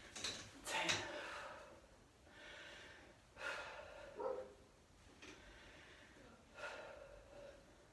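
A woman's heavy breathing while exercising: several short, sharp exhalations a second or so apart.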